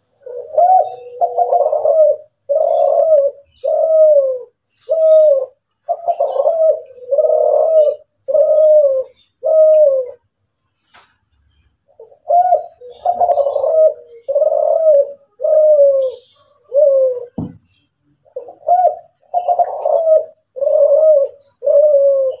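Kelantan-type spotted dove (derkuku) cooing in long runs of full, repeated coo notes, about one a second, with a pause of about two seconds midway.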